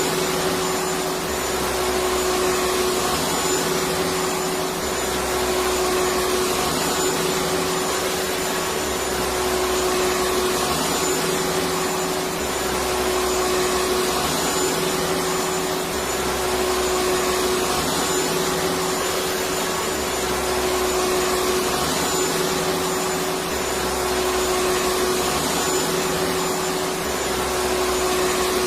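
Electric vacuum cleaner running continuously: a steady whooshing motor noise with a constant hum and a faint high whine, swelling slightly in the low end every few seconds.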